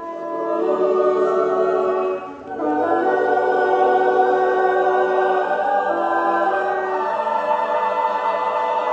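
Choir singing slow, long-held chords, with a short break between phrases about two and a half seconds in.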